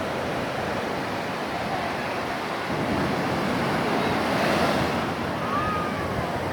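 Ocean waves washing onto a shore, a steady rushing that swells a little around the middle.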